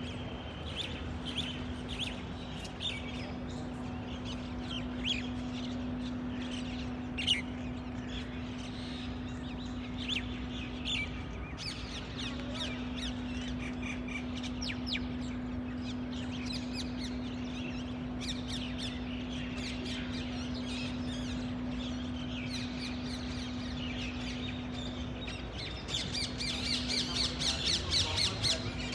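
Several birds chirping and calling, busier with overlapping chirps near the end, over a steady low hum.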